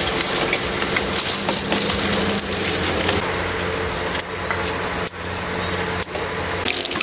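Heavy rain falling in a steady, dense hiss, with a low steady hum underneath.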